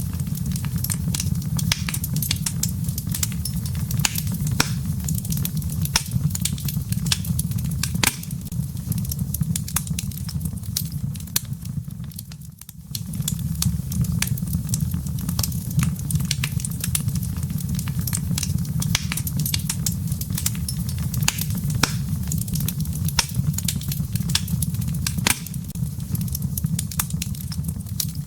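Wood fire burning in a fireplace: frequent sharp crackles and pops over a steady low rumble of the flames, which dips briefly about twelve seconds in.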